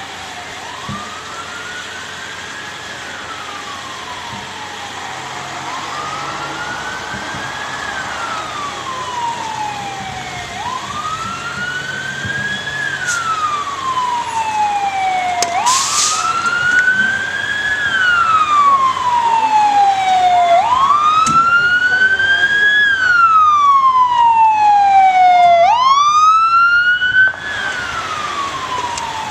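Emergency vehicle siren on a slow wail, each cycle rising and then falling over about five seconds, growing louder as it approaches. Near the end a second siren with faster sweeps joins briefly, and then the sound drops suddenly.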